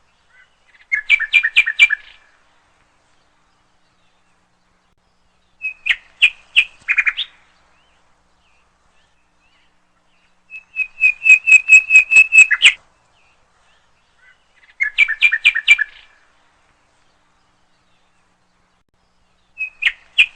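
A songbird singing in short phrases of rapid repeated chirping notes, about five phrases each a second or two long, with silent gaps between them.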